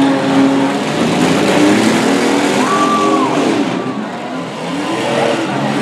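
Several demolition derby cars' engines revving together, their pitches rising and falling over one another as the cars push and ram.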